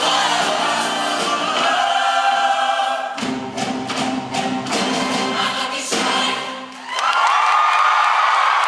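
High school show choir singing with instrumental accompaniment, drum hits punctuating a passage in the middle, then the voices come in on a loud held chord about seven seconds in.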